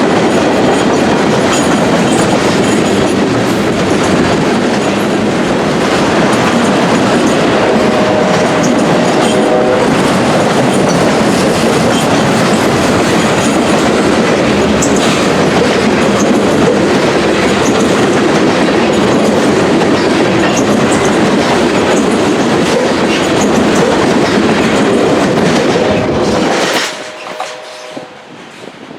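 CSX freight train rolling past at restricted speed, a steady loud rumble with the clickety-clack of wheels over rail joints. The sound drops away suddenly near the end.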